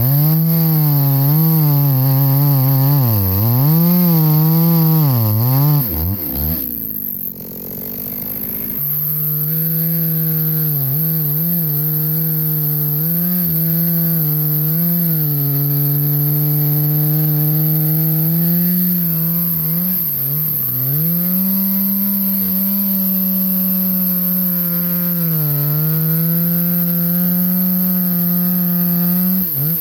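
Chainsaw cutting through a log at high revs, its pitch dipping and recovering again and again as the chain loads up in the wood. About seven seconds in it drops away briefly, then runs steadily through a long cut with occasional dips.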